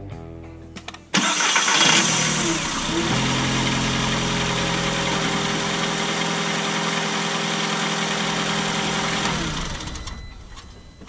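2008 Volkswagen Jetta's four-cylinder engine started by its starter motor, now fitted with new brushes: a short crank catches about a second in, the revs flare and then settle into a steady idle. The starter works without trouble, showing the worn-brush fault is cured. The idle fades out near the end.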